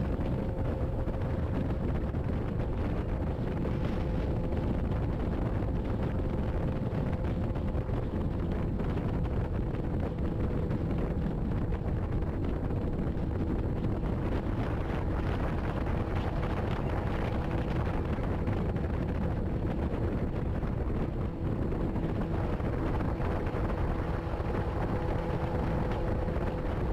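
Motorcycle cruising at a steady highway speed: a constant engine hum under a steady rush of wind on the microphone.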